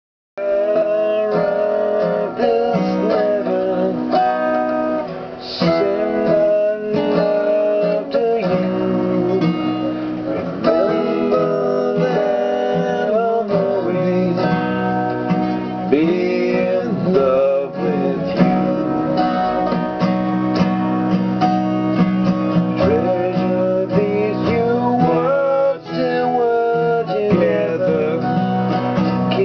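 Music: an acoustic guitar strumming and picking a song's intro, with no words sung.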